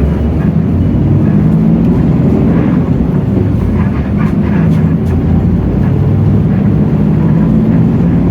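Hino J08E-VN 7.7-litre six-cylinder turbo diesel of a Hino RK8JRVA-KJF city bus running under way, heard from inside the bus as a steady low drone. Its pitch wavers slightly, and the level dips briefly about four seconds in.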